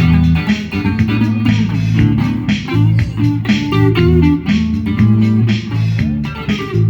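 A band playing a blues-funk groove on electric guitar and bass guitar, with a steady beat.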